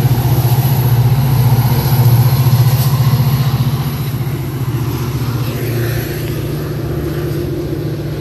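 Diesel locomotive engine running with a steady, low pulsing hum as a train goes by, easing off slightly about four seconds in.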